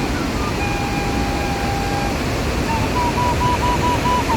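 Steady roar of the Iguaçu waterfalls with a bird whistling over it: one long even whistle about half a second in, then a quick run of short repeated notes near the end.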